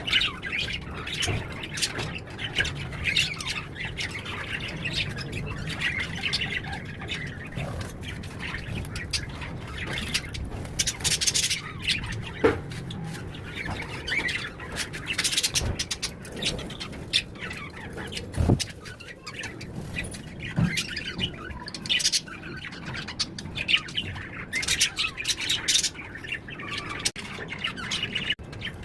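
Birds chirping and squawking in many short, high calls, with a few sharp knocks now and then.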